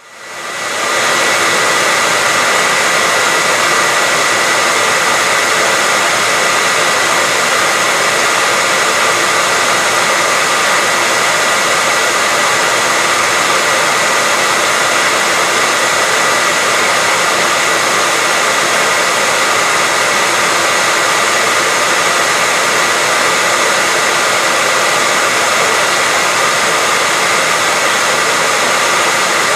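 Electric hair dryer running continuously at a constant setting, a steady rush of blown air with a high whine held on one pitch. It fades in over the first second, then holds unchanged.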